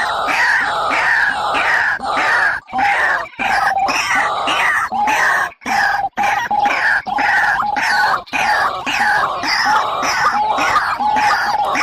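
Barred rail (tikling) calling in a continuous series of harsh, downward-slurred notes at about three a second, played as a bird-trapping lure.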